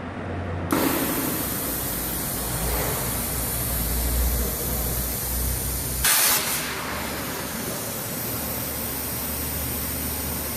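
Hypertherm HyPerformance plasma cutting torch running on steel plate: a loud, steady hiss that starts abruptly under a second in, with a brief louder blast about six seconds in, over a low machine hum.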